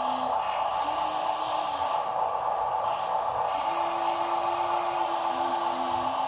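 Small electric motors of toy RC dump trucks whirring steadily, with a faint higher whine that cuts in and out several times.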